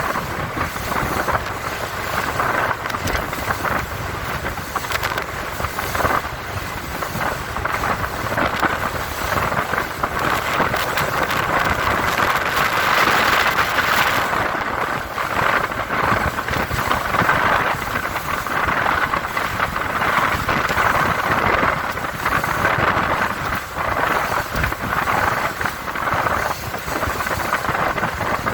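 Wind rushing and buffeting over the microphone aboard a Four Winns Liberator powerboat running at speed through rough chop, with engine and water noise underneath. The rush grows a little louder about halfway through.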